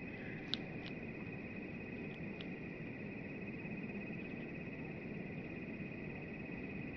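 Steady high insect-like trilling over a low outdoor rumble, with a few sharp clicks in the first two and a half seconds, the loudest about half a second in.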